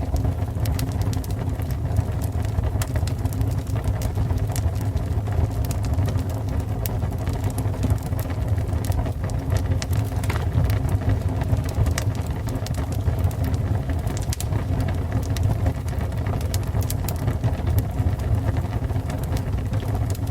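Fire burning: a steady low rumble of flames with many scattered sharp crackles and pops.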